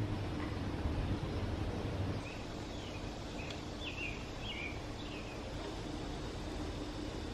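Outdoor yard ambience: a low hum that drops away about two seconds in, then a bird calling a quick run of short chirps in the middle.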